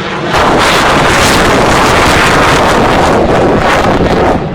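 A fighter jet passing close by with its engine at high power, a loud roar that overloads the phone's microphone into a harsh rushing noise. It comes in abruptly about a third of a second in and falls away near the end.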